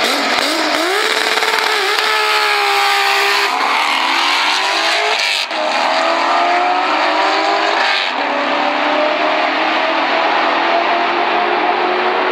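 Turbocharged VR6 engine of an Audi S3 drag car at full throttle off the start line, its pitch climbing and then dropping back at each upshift several times as it pulls away, with a second race car accelerating alongside.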